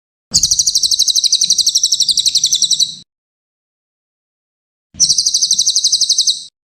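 Brown cililin songbird singing two rapid, high-pitched trills of about a dozen even notes a second: the first lasts about three seconds, the second starts about five seconds in and lasts about a second and a half.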